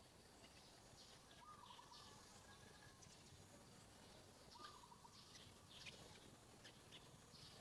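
Near silence: faint outdoor ambience with distant bird chirps repeating every second or so and two short warbled calls.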